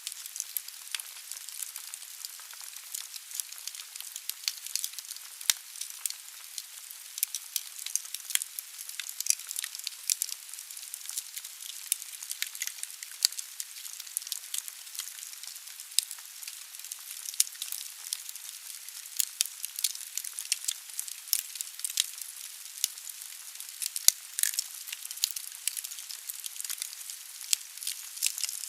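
Firewood burning in a fireplace, crackling and hissing, with frequent irregular sharp pops over a steady hiss.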